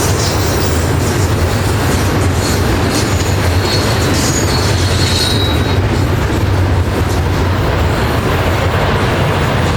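Freight train rolling past on the main line, a steady, loud rumble of wheels on rail, with thin high-pitched wheel squeals from about two to five seconds in.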